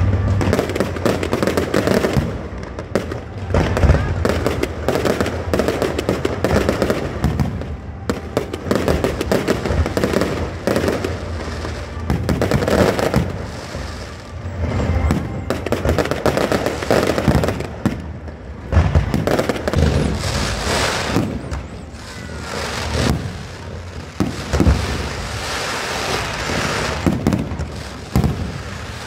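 A fireworks display: aerial shells bursting in a rapid, continuous string of booms, with dense crackling between them.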